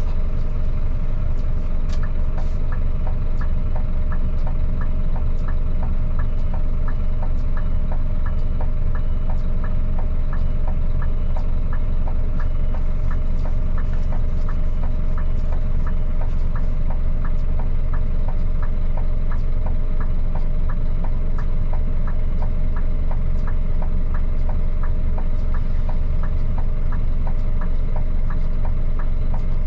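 Scania P310 truck's diesel engine running steadily, with faint regular ticking about twice a second.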